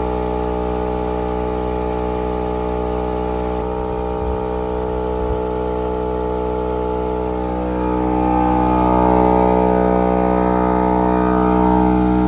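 VEVOR 12V on-board air compressor running steadily under load while filling a tire, a loud, even hum that grows a little louder about two-thirds of the way through.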